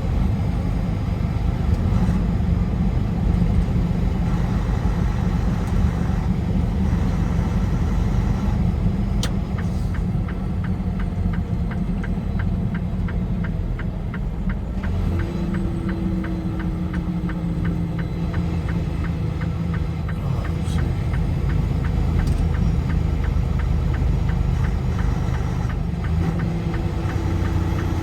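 Car driving on a highway: a steady low rumble of engine and tyre noise. A fast, even ticking runs through the middle stretch, and a faint steady tone comes in about halfway and again near the end.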